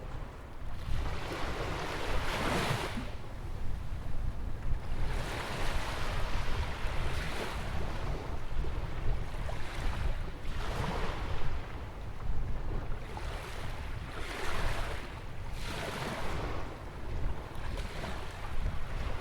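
Ocean waves breaking and washing in beside a jetty: about five surges, each swelling and fading over a couple of seconds, over a constant low rumble of wind on the microphone.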